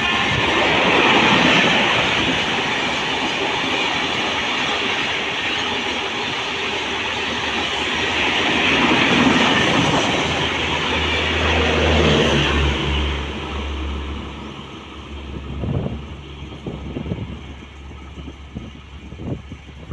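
Indian Railways express train passing at speed: a steady rush of wheel and coach noise with a low drone near the end of the pass. It dies down about two-thirds of the way through, leaving uneven gusty noise.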